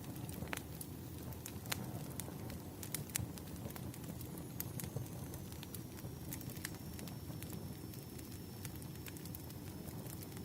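Wood fire crackling: frequent irregular sharp pops and snaps over a low, steady rumble of burning logs.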